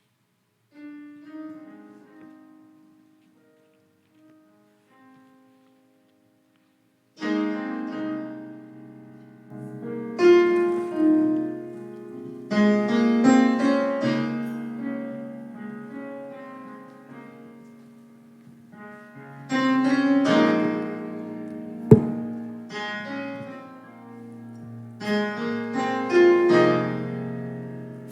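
Piano playing a slow, quiet introduction that starts with a few soft notes, pauses, then swells into full sustained chords about seven seconds in. A single sharp click sounds about two-thirds of the way through.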